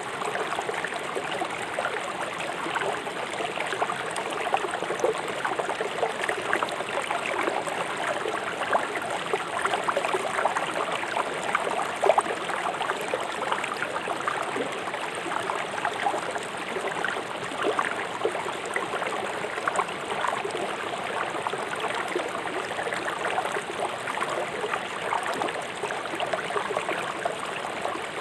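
A fast-flowing river rushing and splashing over rocks, a steady dense babble of water.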